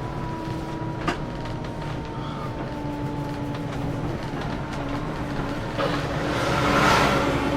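Scania K410CB coach running on the road, a steady drone with a high tone that sinks slowly. There is a single click about a second in, and near the end a rush of noise swells up and fades.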